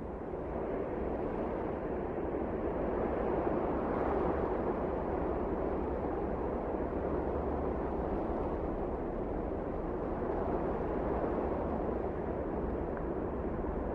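Blizzard wind blowing steadily, a broad rushing noise that swells a little over the first few seconds.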